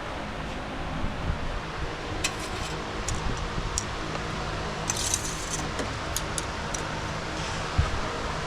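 Light metallic jingling and clinking, like keys, in several short bursts over a steady low hum. A single dull thump comes near the end.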